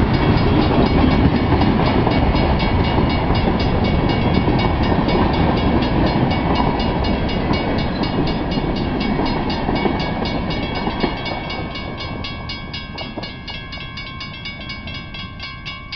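Freight train cars rolling past a grade crossing, a loud steady rumble that fades over the last several seconds as the end of the train goes by. The crossing bell rings in rapid, regular strokes throughout and stands out as the train noise dies away.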